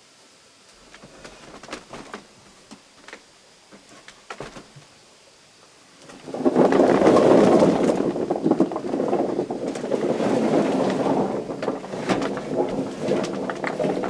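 Cut potato pieces sizzling in hot frying oil: the loud crackling sizzle starts suddenly about six seconds in, after a few light clicks of handling.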